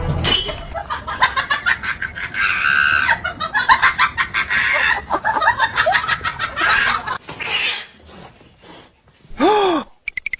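Chickens clucking in quick, rapid bursts, followed about two seconds before the end by one loud call that slides down in pitch.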